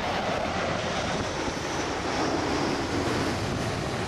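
Jet engine noise from an Airbus A350 XWB's Rolls-Royce Trent XWB turbofans: a steady, loud rush with no break.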